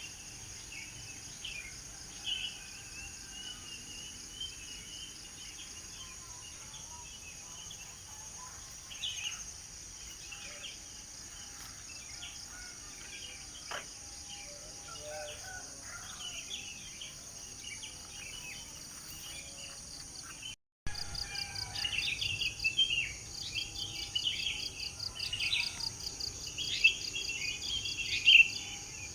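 Several birds chirping and twittering over a steady high drone of insects. A brief break comes about two-thirds of the way through, after which the birdsong is louder and busier.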